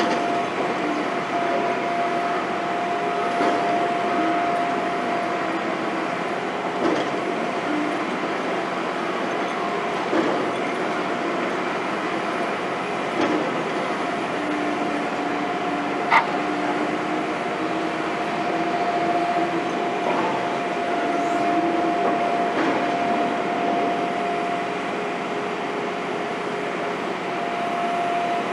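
Heavy construction machinery running steadily: a constant mechanical noise with a held steady tone and a lower wavering one, and a single sharp click about 16 seconds in.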